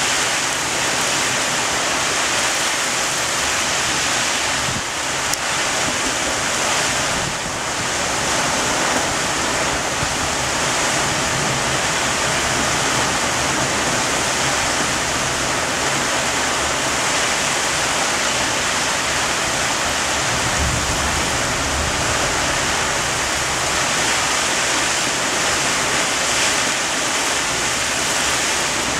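Heavy rain pouring down steadily in a thunderstorm, with wind.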